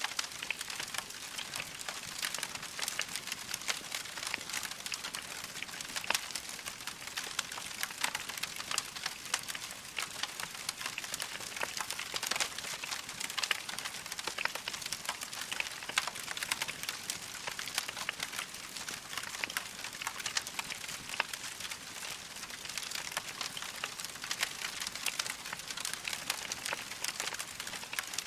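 Wood fire crackling steadily: a dense stream of small crackles with sharper pops scattered throughout.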